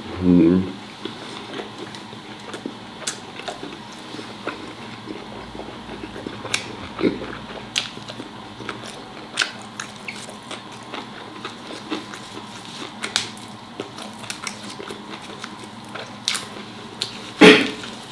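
Close-up eating of braised pork offal and pig's trotter: biting and chewing with many small, irregular clicks and wet mouth sounds. A louder short sound comes right at the start and another near the end.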